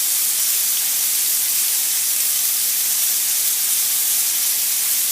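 Steady, loud sizzling hiss of Marsala wine deglazing a hot sauté pan of floured mushrooms as the heat is turned up.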